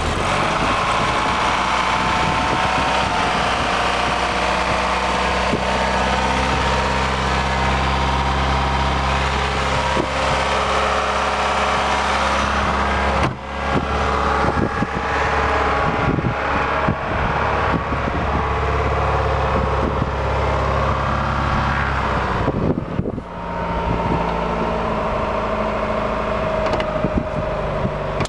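1988 Pontiac Fiero's engine idling steadily just after being started, at an even pitch throughout, with two brief dips in level about 13 and 23 seconds in.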